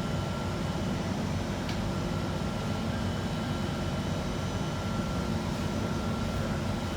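Steady low rumble and hum inside an Alstom C830 Circle Line train standing at a platform, with a thin constant whine from its running equipment and air-conditioning.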